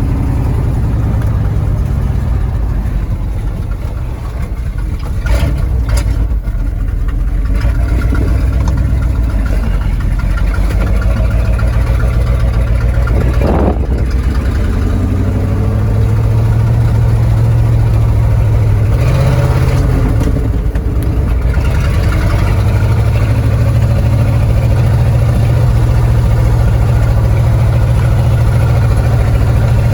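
Old Ford F-250 Highboy pickup's engine running as the truck is driven, its note rising and falling with the throttle. A few sharp knocks sound around five to six seconds in.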